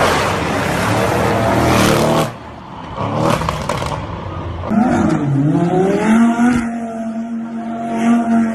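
Exotic sports car exhausts: a loud engine run that cuts off abruptly about two seconds in, a short burst a second later, then an engine revving up and settling into a steady held note.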